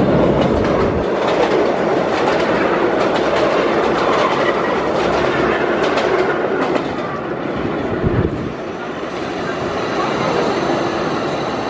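Running noise heard inside a 1903 BU elevated subway car moving along the track: a steady rumble with wheels clacking over the rail joints, and a few sharp clicks and knocks around six to eight seconds in.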